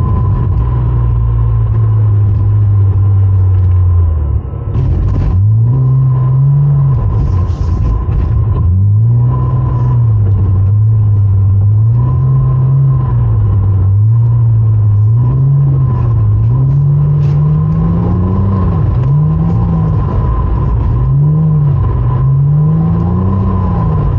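Porsche Cayman engine under load while the car is drifted: a steady note for the first few seconds, then after a brief dip the revs rise and fall over and over, roughly every second or two, as the throttle is worked to hold the slide.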